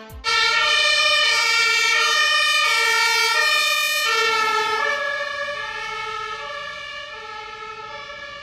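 German two-tone emergency-vehicle siren (Martinshorn) alternating between two notes as the vehicle drives past. The notes drop slightly in pitch about halfway through, then the siren fades away.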